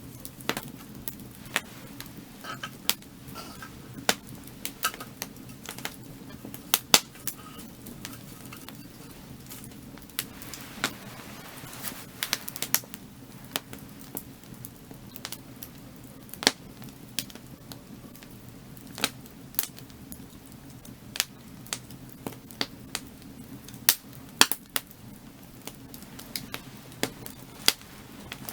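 Firewood burning with crackles: irregular sharp pops and snaps, several a second, some much louder than others, over a steady low hum.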